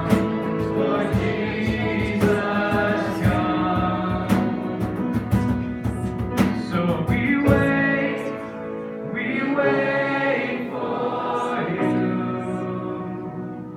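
Live worship music: a band playing with voices singing. A steady beat runs through the first half, then it eases into held chords that grow quieter near the end.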